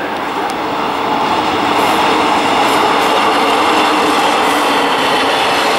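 MÁV-START passenger railcar passing close by, a steady rumble of train noise with a rhythmic clickety-clack of wheels on the rail. It grows louder over the first two seconds and then holds steady.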